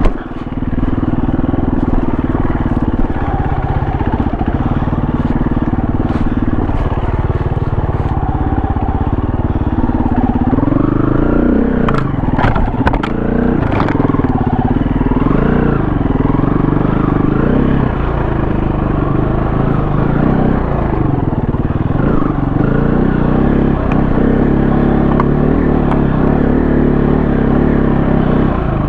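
KTM 350 four-stroke single-cylinder dirt bike engine running under load, its revs rising and falling with the throttle. A few sharp knocks come about twelve to fourteen seconds in.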